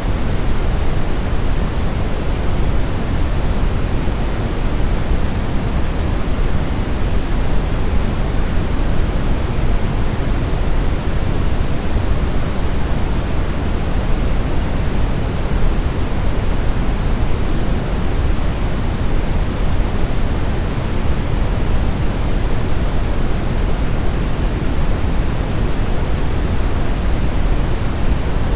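Steady brown noise: an even, unbroken rushing hiss weighted heavily toward the low end, with no changes or events.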